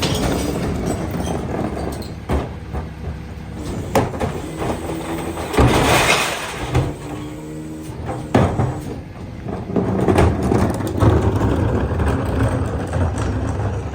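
Freightliner EconicSD rear-loader garbage truck with a McNeilus body at work: the engine runs steadily, with sharp knocks about four and eight seconds in and a loud rushing burst about six seconds in. It grows louder for a stretch around ten seconds in.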